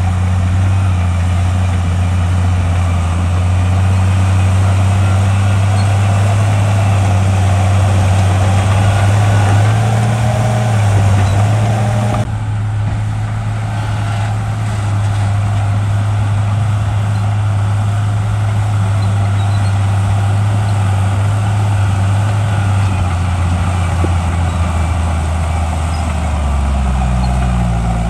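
Shantui bulldozer's diesel engine running steadily, with a sudden break in the sound about twelve seconds in and the engine pitch shifting near the end.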